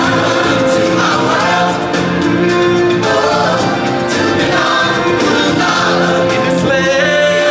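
A choir singing over a steady musical accompaniment, as in a live stage-show song.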